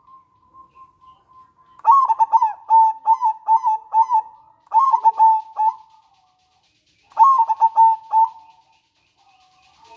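Zebra dove (local perkutut) singing: after a faint held note, a rapid staccato run of short falling coo notes lasting about four seconds, then a second shorter run a second later.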